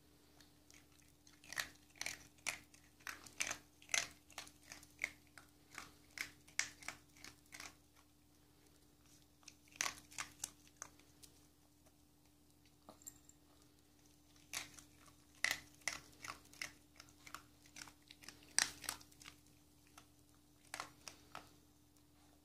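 Dog crunching and chewing dry kibble, in several bouts of rapid crunches with short pauses between them.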